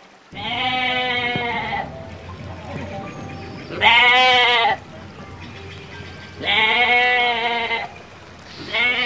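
Sheep bleating: four long, quavering bleats of about a second each, a few seconds apart.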